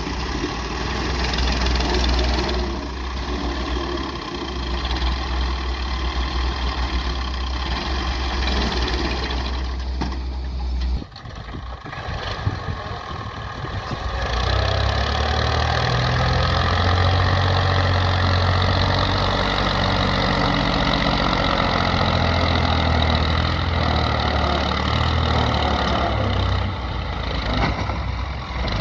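Tractor diesel engine running steadily. It breaks off about eleven seconds in, then comes back louder and heavier from about fourteen seconds.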